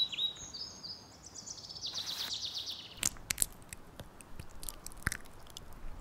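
A songbird singing a phrase of repeated high, down-slurred notes that speed up into a rapid trill, ending about two seconds in. After it come several scattered sharp crunches and clicks.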